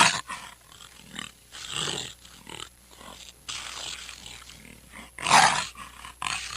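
An animal calling in several rough, noisy bursts. The loudest come right at the start, about two seconds in, and about five seconds in.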